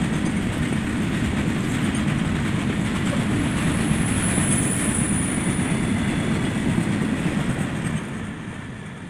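Freight train of BOXNHL open wagons passing at speed, its wheels running loud and steady on the rails, the sound falling away about eight seconds in as the brake van at the tail goes by.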